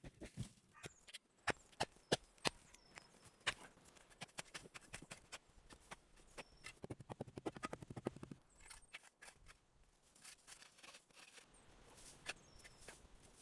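Hand-tool work: irregular sharp knocks and clicks, with a quick run of rapid strokes around seven seconds in.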